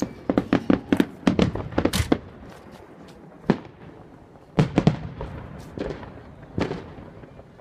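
Fireworks going off: a rapid string of sharp cracks for about two seconds, then scattered single bangs with short gaps between.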